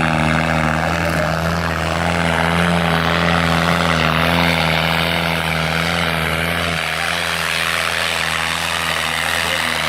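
New Holland tractor's diesel engine running steadily under throttle, its tone easing slightly about seven seconds in.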